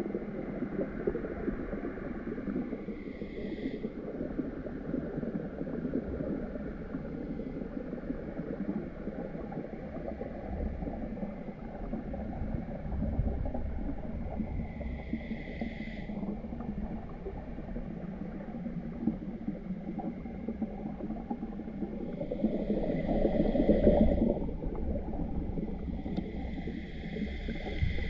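Muffled, churning water noise as heard through an underwater camera, with the current's rush swelling louder near the end.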